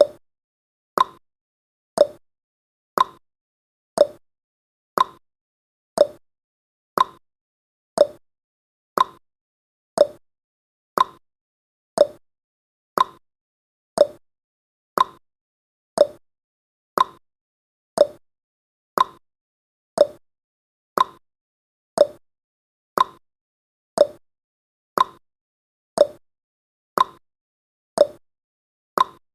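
Countdown timer's ticking sound effect: a short, crisp tick exactly once a second, every tick alike.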